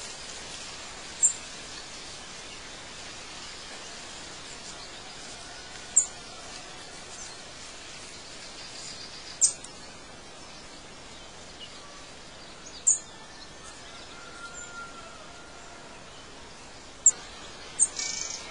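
Short, high bird chirps, about six spaced a few seconds apart, over a steady background hiss of outdoor ambience.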